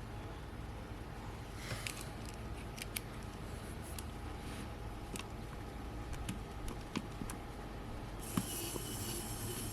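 Scattered small clicks and scrapes of hand tools working on the parts of a camera zoom lens being dismantled, over a steady low hum. A hissing scrape begins near the end.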